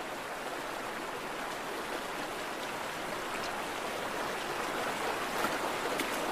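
Stream water rushing steadily, growing a little louder toward the end, with a couple of faint clicks near the end.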